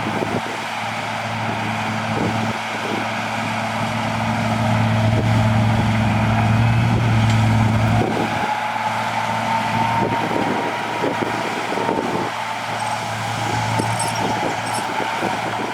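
Diesel engine of heavy earthmoving machinery running. Its drone builds to a peak and eases off about eight seconds in, a high whine rises as it eases, and frequent metallic clanks and rattles run through it.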